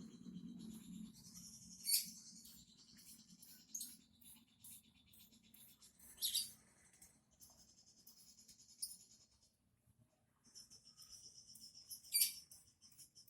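Small songbird chirping in high-pitched, rapid trills, with a few sharper, louder calls standing out.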